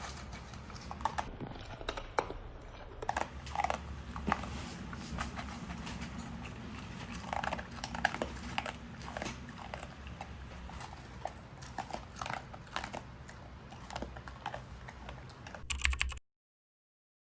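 Beagle eating, with an uneven run of small crunches and clicks of chewing. The sound cuts off suddenly about a second before the end.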